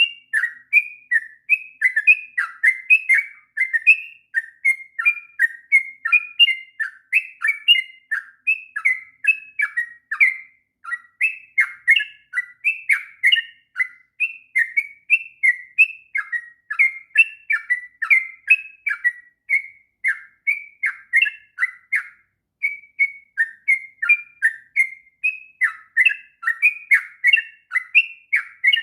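A yellow-vented bulbul (trucuk) singing nonstop: long, rapid strings of short whistled and chirping notes that follow one another with hardly a pause. This is the 'ngropel' continuous song that keepers use as a master recording for training young birds.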